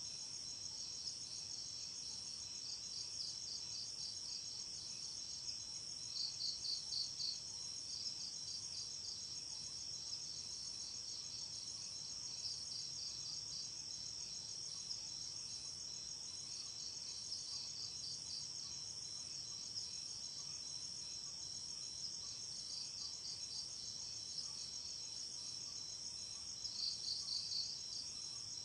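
Night insect chorus: a steady, high-pitched trilling with no let-up. Twice, about six seconds in and again near the end, a nearer insect adds a louder burst of rapid pulses.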